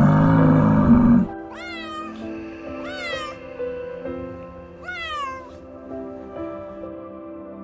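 Domestic cat meowing three times, each meow rising then falling in pitch, over soft background music. A louder, lower animal call fills about the first second.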